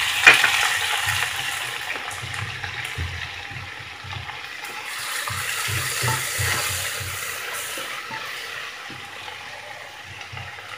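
Chopped tomatoes sizzling in hot oil in a kadhai with fried onions and ginger-garlic paste. There is a sharp knock just after the start; the sizzle fades, swells again midway, then dies down.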